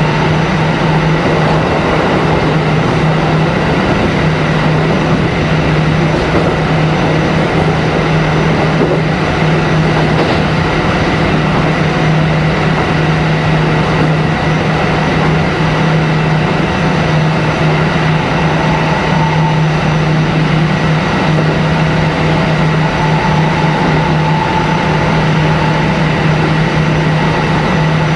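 Kintetsu 1420 series electric train running at a steady pace, heard from inside the car: an even rumble of wheels and running gear over a steady low hum, with a thin high whine and a faint middle tone that comes and goes in the second half.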